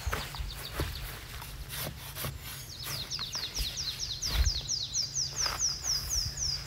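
A songbird singing a long run of short, falling high notes, about four a second, beginning about three seconds in. Underneath, footsteps and rustling in grass and twigs, with a thump about four seconds in.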